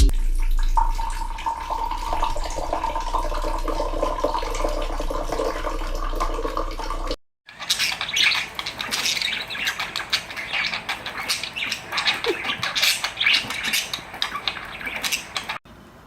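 Birds chirping and squawking in quick, dense bursts, after a first few seconds of a steady hum with a held tone.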